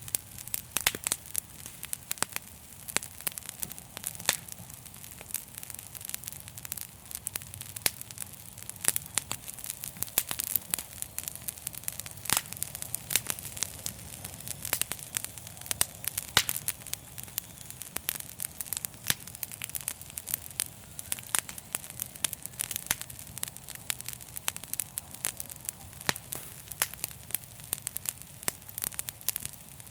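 Wood fire crackling and popping, with many sharp irregular pops over a steady low rumble and a soft hiss.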